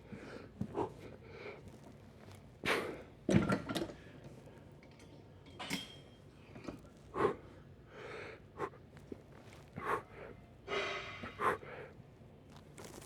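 A man breathing hard and pushing out breaths through a light set of weight training, with a few sharp knocks of gym weights about three seconds in.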